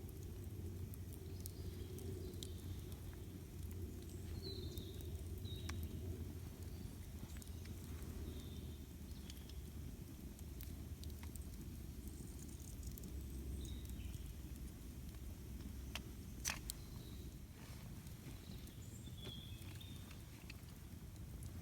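Campfire crackling: scattered sharp pops and snaps, one louder pop about two-thirds of the way through, over a steady low rumble. Short bird chirps come and go.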